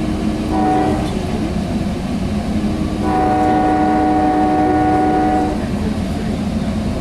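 Sounder commuter train's locomotive horn heard from aboard the train: a short blast about half a second in, then a long blast of about two and a half seconds from about three seconds in, over the steady rumble of the train rolling along the rails.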